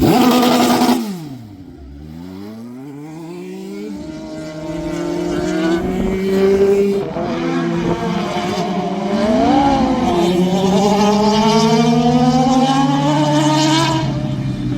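High-revving motorcycle-engined race vehicles on a track: one passes and fades with falling pitch in the first two seconds, then engines approach, pitch and loudness climbing steadily, with more than one engine heard at once.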